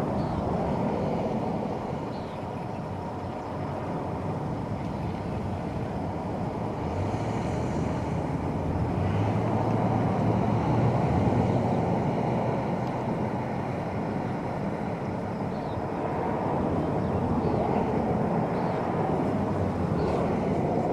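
Wind rumbling on the microphone in gusts, swelling and easing over several seconds, loudest about halfway through.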